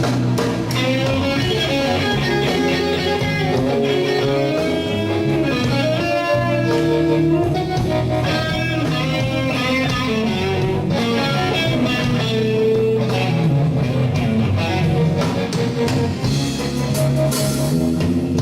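Slow electric blues played by a band: a lead electric guitar plays bent, sliding notes over bass guitar.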